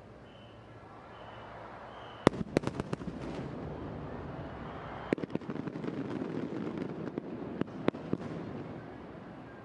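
Fireworks bursting: a quick run of sharp cracks about two seconds in, then a few scattered cracks later on, with a rumbling crackle between them.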